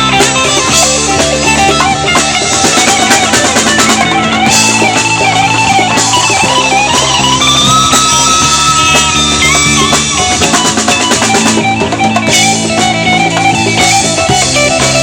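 Live band playing an instrumental passage of guitar and drums over a steady bass line, with a melody line that holds a long note about halfway through.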